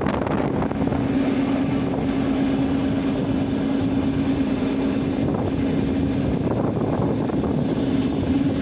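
Running noise of an electric commuter train in motion: wheels rolling on rails with a steady low hum underneath.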